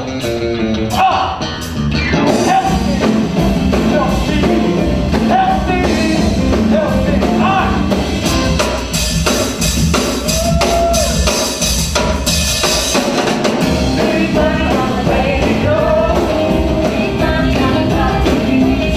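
Blues-rock music from a band with a drum kit, with a voice singing over it.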